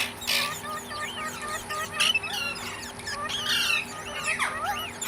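Parrots chirping and squawking: many short, overlapping calls with a few harsh squawks in between.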